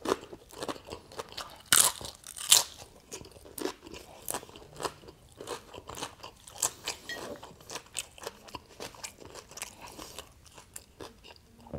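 Close-miked crunching and chewing of a crisp fried tortilla topped with shrimp ceviche: two loud crunching bites about two seconds in, then many quicker, softer crunches as it is chewed down.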